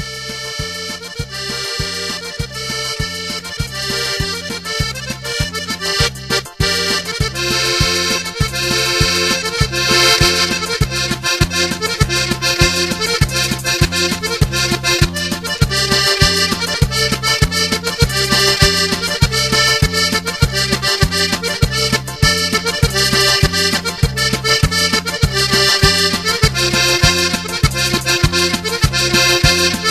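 Accordion music with a steady, regular bass beat under a sustained melody, in a traditional style.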